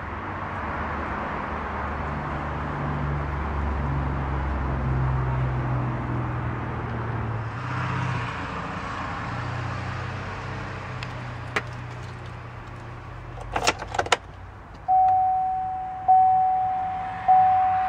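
2011 Chevrolet Tahoe Z71's V8 idling after a remote start. A few sharp clicks come about three-quarters of the way through, then the dash warning chime starts dinging about once a second near the end.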